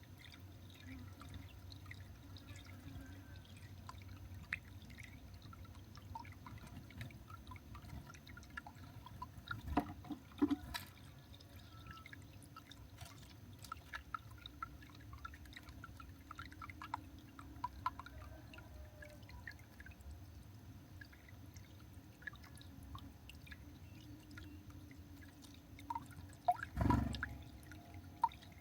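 Faint outdoor ambience at a garden bird feeder: scattered small ticks and taps over a low rumble, with a louder knock about ten seconds in and another near the end.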